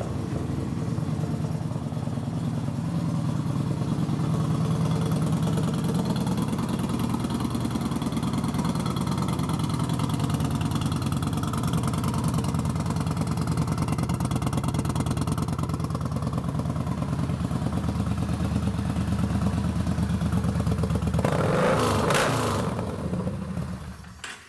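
2015 Yamaha Bolt C-Spec's 942cc air-cooled V-twin running at a steady idle, with a brief rise in the sound about 22 seconds in before it dies away near the end.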